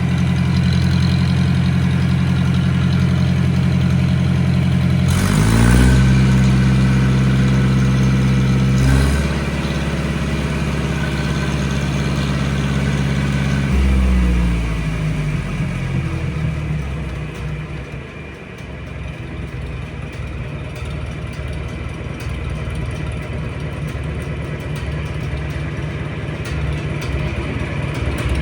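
1962 John Deere 3010 tractor's newly installed engine running. It is throttled up about five seconds in and drops back a step near nine seconds, then slows over a few seconds from about fourteen seconds in and settles to a lower steady idle.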